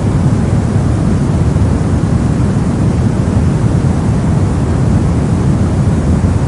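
Steady soft noise of the kind used for sleep and focus, deep-toned, with most of its weight low down and little treble. It stays even, with no changes or separate events.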